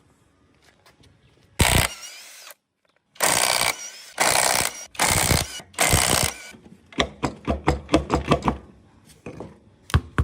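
Hand and power tool noise on a small motorbike engine during strip-down: four loud bursts of about half a second each, then a run of quick metallic clicks at about five a second.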